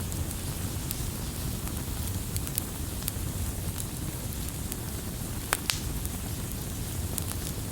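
Wood campfire burning with a steady low rumble and scattered sharp crackles, the loudest a quick double pop about five and a half seconds in.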